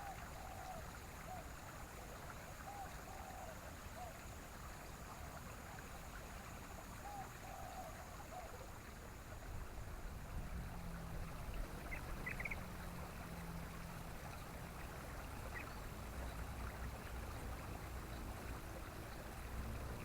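Faint bird calls over a steady rushing background: a run of short low notes in the first half, then a couple of brief higher chirps about midway. A low hum comes in around halfway through.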